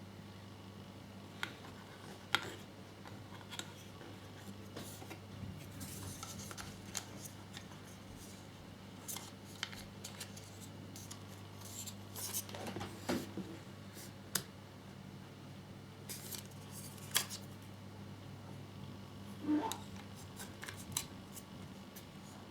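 Small plastic model-kit parts being handled and pressed together: scattered light clicks, taps and short scratchy rubs, some in quick clusters, over a steady low hum.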